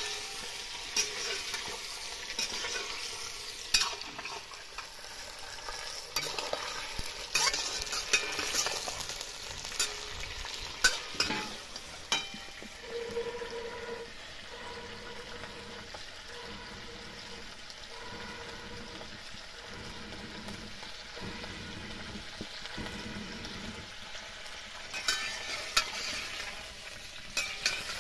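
Mutton pieces sizzling in hot oil in a black kadhai while a steel spoon stirs them, with scrapes and sharp clinks of the spoon against the pan every few seconds.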